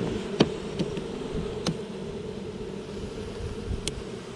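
Honeybees buzzing in a steady hum from a busy, strong colony, with a few sharp clicks scattered through.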